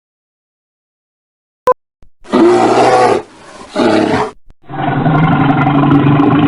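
Recorded animal calls. About two seconds in comes a loud, rough call in two parts, and after a brief break a longer, steadier low call that runs on past the end.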